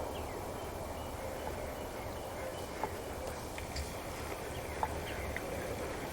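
A few short, sharp turkey clucks, three single notes a second or two apart, over a steady outdoor background hiss.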